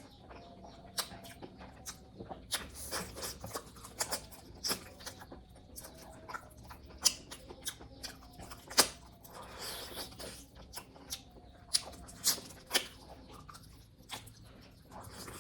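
Close-miked mouth sounds of chewing fatty pork curry and rice: irregular wet clicks and lip-smacks, with a longer rushing noise about nine seconds in.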